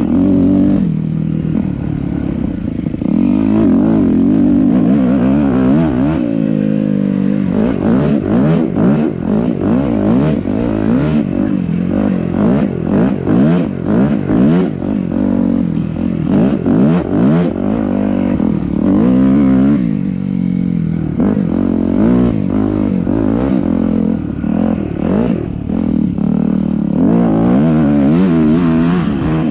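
Yamaha YZ250F four-stroke single-cylinder dirt bike engine being ridden, revving up and down with repeated quick on-off throttle in the middle stretch and steadier pulls near the start and in the last few seconds. Scattered knocks and clatter sound over the engine.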